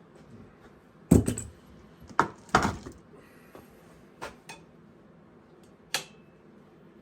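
Metal tools and parts knocking together in a few sharp clanks and clinks. The loudest comes about a second in, two more follow close together at about two seconds, and a last one near the end rings briefly.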